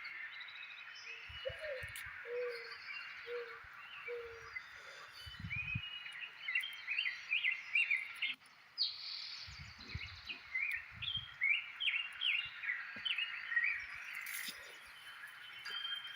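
Birds chirping in rapid runs of short, quick notes over a steady swamp background chorus, with four or five lower calls about a second apart in the first few seconds. A few dull low thumps come in between.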